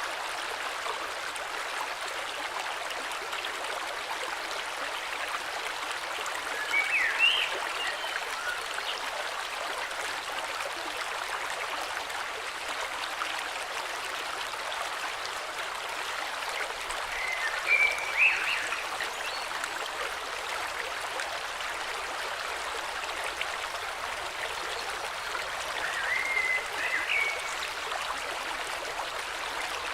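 Steady rush of a flowing river, with a bird calling in short chirping phrases three times, about ten seconds apart.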